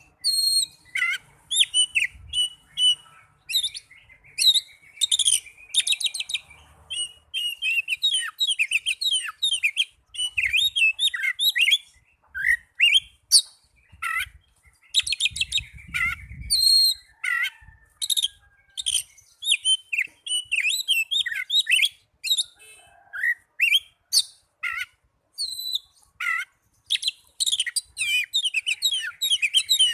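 Oriental magpie-robin (kacer) singing its fighting song: a fast, varied run of whistles, chirps and buzzy notes, delivered in short phrases with brief pauses between them.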